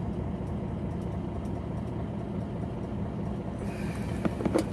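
Heavy truck's engine idling with a steady low hum, with a few short clicks near the end.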